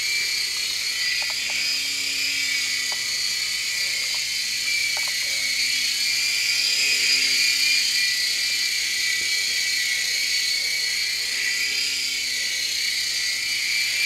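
Air Hogs Sharpshooter toy RC helicopter in flight: a steady, high-pitched electric whine from its small motors and rotors, wavering slightly in pitch as the throttle is worked.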